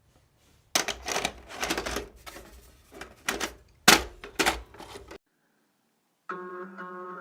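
Irregular clattering and knocking for about four seconds, as of objects being handled, cutting off suddenly. After a short silence, music starts near the end.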